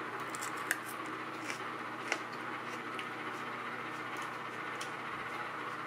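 A slice of raw sweet pepper being bitten and chewed, with a few short, crisp crunches scattered through, over the steady hum of a running microwave oven.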